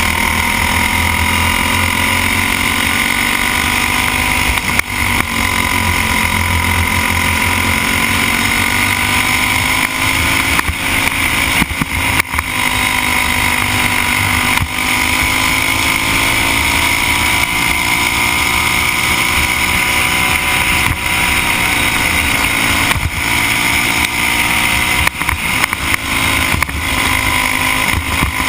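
Briggs & Stratton Animal single-cylinder four-stroke kart engine running hard, heard from the driver's helmet. Its pitch rises and falls every several seconds as the revs come up on the straights and drop off for the corners.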